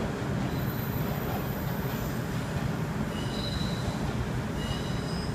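Six-car JR East 719 series electric train pulling away along the track: a steady rumble, with two short high squeals in the second half.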